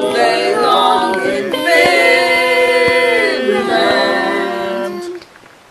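Layered a cappella voices singing in close harmony, building to a long held chord that breaks off about five seconds in.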